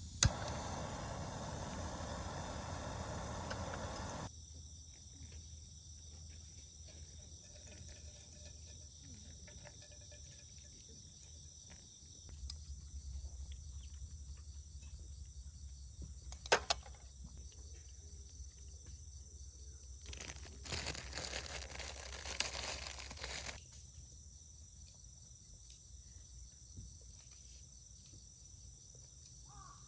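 Steady chorus of autumn insects such as crickets chirping, with rustling in the first few seconds and again about two-thirds of the way through, and a few sharp clicks.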